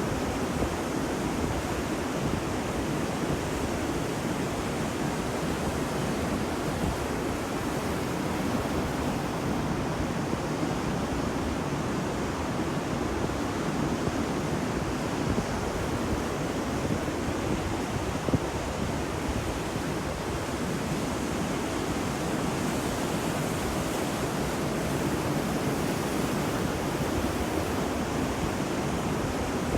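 Ocean waves breaking on a beach as a steady, even surf wash, with no distinct swells.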